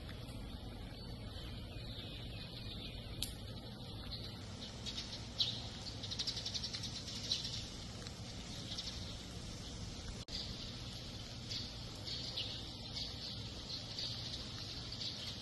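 Birds chirping, busier after the first few seconds, over a steady low hum of outdoor ambience.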